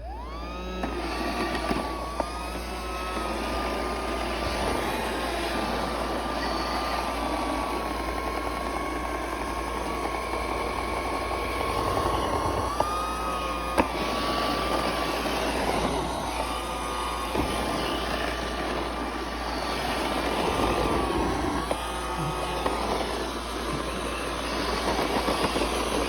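Roomba robot vacuum running: its motor spins up at the start to a steady whine over the brush and suction noise, with a couple of brief clicks about halfway through.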